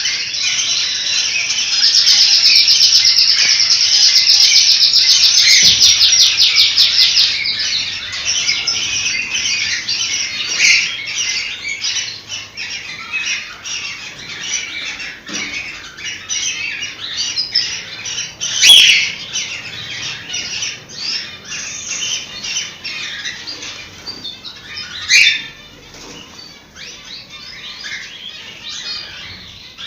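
Cockatiels chirping and squawking together: a loud rapid run of repeated calls a couple of seconds in, then steady chatter broken by sharp single squawks.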